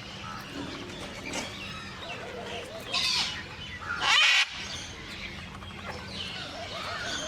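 Parrots chattering with short wavering and gliding calls. Two loud, harsh squawks stand out, about three seconds in and just after four seconds.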